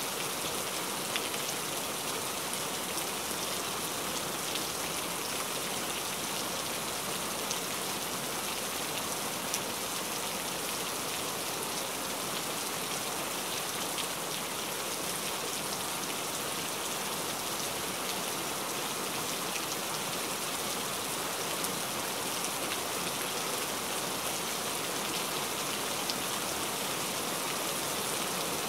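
Steady rain falling: an even hiss of rain on a surface, with scattered sharper drop ticks.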